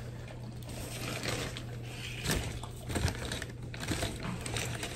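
Close-up eating sounds: chewing and crunching of fried food, with a few sharp clicks and smacks, over a steady low hum.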